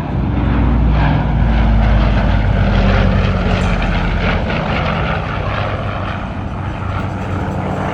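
Douglas DC-6B's four Pratt & Whitney R-2800 radial piston engines and propellers running in a flypast, a deep steady drone that is loudest about one to three seconds in and then slowly fades as the aircraft passes.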